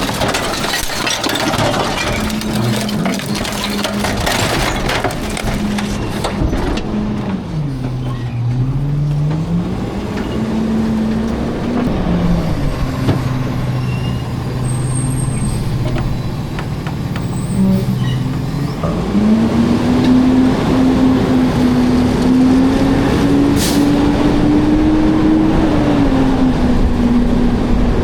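Garbage truck's diesel engine running. Its pitch drops and rises as engine speed changes and climbs to its highest over the last third, with some clattering in the first few seconds.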